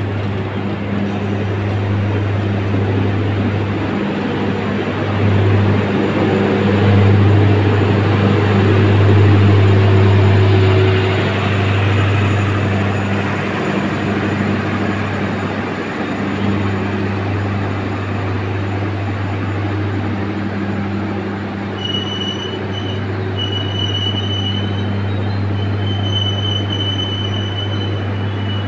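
Singasari passenger train running on the rails with a steady low hum, the running noise swelling about eight to eleven seconds in. Near the end a high-pitched squeal of steel wheels on the rail comes and goes several times.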